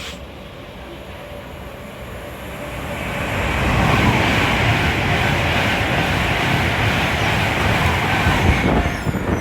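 A Class 390 Pendolino electric train passing at speed. A rush of wheel and air noise builds over a couple of seconds, stays loud for about five, then starts to fade near the end.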